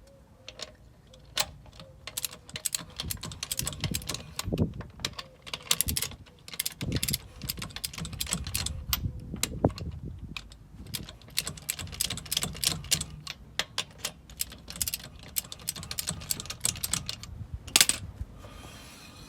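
Hand ratchet clicking in quick, irregular runs of sharp clicks while a suspension nut is tightened, with one louder click near the end.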